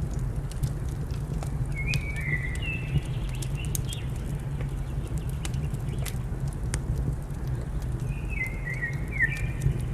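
Wood fire crackling in a fireplace, with a steady low rumble under scattered sharp pops. A bird gives a short series of chirping notes about two seconds in and again near the end.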